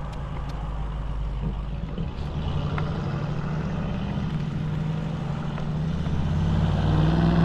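Scooter's small engine running steadily while riding, with wind rushing over the microphone. The engine's pitch and loudness rise near the end as it speeds up.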